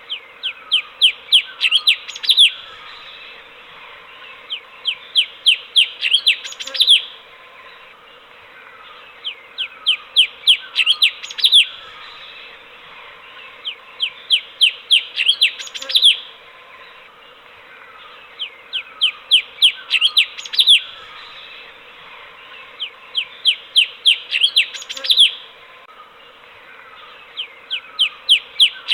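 Cucak cungkok, a bulbul, singing a repeated phrase about every four and a half seconds: a quick run of sharp, high down-slurred notes ending in a louder note, over a steady hiss.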